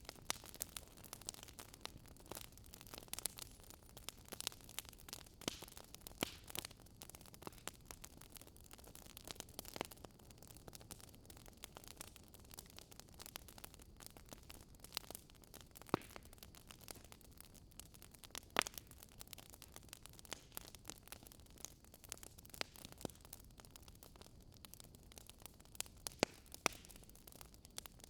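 Fireplace fire crackling: irregular small pops and snaps over a faint hiss, with two louder pops in the middle.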